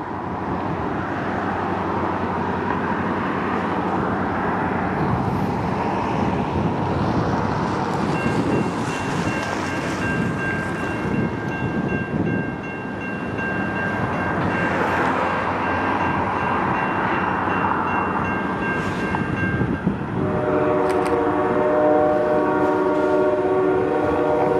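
Freight train running by with a steady rumble, and a few thin high steady tones over the middle stretch. About twenty seconds in, the locomotive's air horn sounds a held chord.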